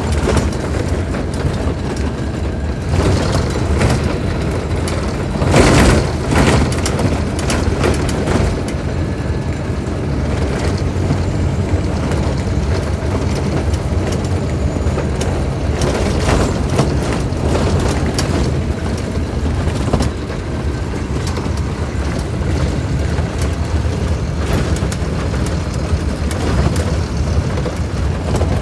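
Scania K310IB bus's rear-mounted diesel engine running steadily with a deep hum, along with scattered knocks and rattles and a short louder patch about six seconds in.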